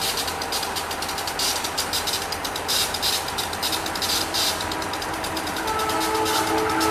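Diesel locomotive hauling a passenger train approaching at speed, its engine and wheels on the rails making a steady rumble and hiss. Near the end the locomotive's air horn starts sounding a steady chord.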